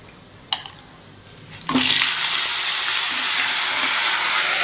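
A single click, then marinated chicken pieces go into hot oil and a loud sizzle starts suddenly a little under two seconds in, holding steady.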